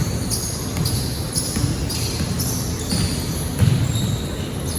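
Basketball game play on an indoor court: the ball bouncing on the floor in repeated thumps, the loudest about three and a half seconds in.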